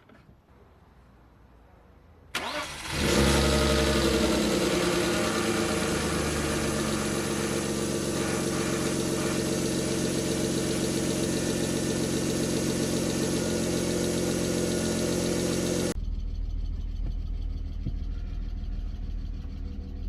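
1998 BMW E39 520i's 2.0-litre inline-six cranking and catching about two seconds in, then running steadily. Near the end the sound turns abruptly duller, losing its hiss, while the engine keeps running.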